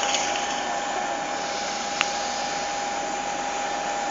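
Boeing 737-700 running on the ground during startup: a steady rush of air with a constant whine held on one pitch, and a single short click about two seconds in.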